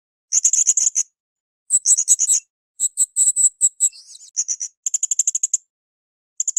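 Blue-crowned hanging parrot (srindit) calling: about five bursts of rapid, shrill, very high-pitched notes, each lasting under a second, separated by short pauses.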